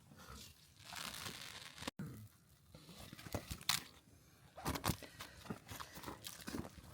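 Irregular crinkling and rustling with scattered sharp crunches and clicks, as of stiff fabric or plastic being handled; it breaks off briefly about two seconds in.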